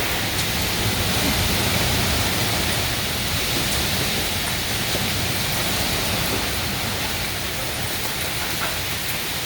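Heavy rain pouring down steadily in a severe thunderstorm, a dense, even hiss.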